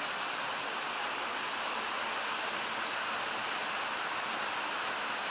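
Rushing water of a mountain creek's waterfall cascade, a steady even hiss with no break.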